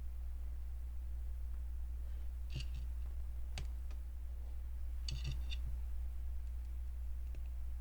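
Small plastic LEGO pieces clicking as they are handled and pressed together, in a few short clusters of clicks about two and a half seconds in and again around five seconds, over a steady low hum.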